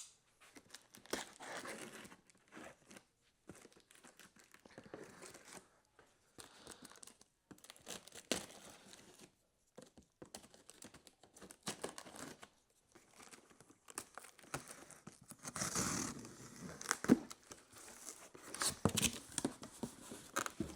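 A cardboard shipping box being opened and unpacked by hand: irregular tearing, crinkling and rustling of cardboard and packing material, with scattered knocks and clicks, busier and louder in the last few seconds.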